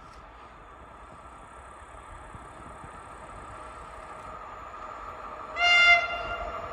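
Train approaching, its running noise and a steady hum slowly growing louder, with one short blast of the train horn about five and a half seconds in.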